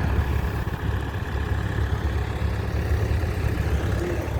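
A motor vehicle's engine running steadily, a low rumble without change.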